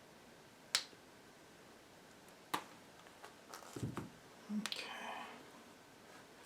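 Tools and wire handled at a workbench while a cloth-covered wiring harness is made: two sharp clicks a couple of seconds apart, then a quick run of clicks, a dull knock and a brief scraping rustle about five seconds in.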